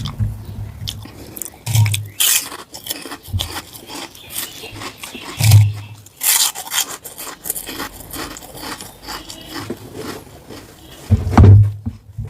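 Close-miked eating of rice and curry: irregular scrapes and clinks of food being gathered on a plate, with a few soft low thumps.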